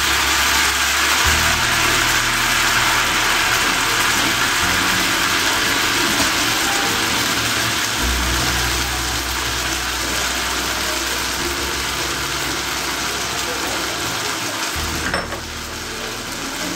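Mashed sweet pumpkin paste with green chillies sizzling in hot mustard oil in a black iron kadai. It is a steady, dense sizzle that is loudest at first and slowly dies down.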